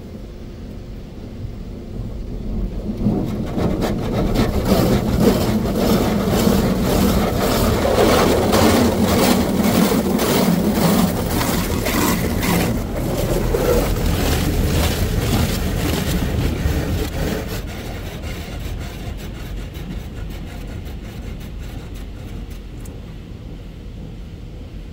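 Futura Millenium touch-free car wash gantry running a pass over the car, heard from inside the car. A rushing noise builds over the first few seconds, pulses rapidly while it is loudest, and slowly dies away during the second half.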